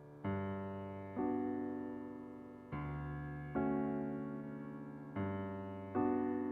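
Slow piano chords, each struck and left to ring and fade, with a new chord about every second or so.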